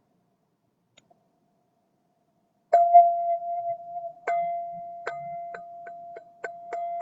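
A struck sound-healing instrument ringing one steady, clear tone. It is struck about three seconds in after near silence, struck again a second and a half later, then tapped about twice a second so the tone keeps ringing.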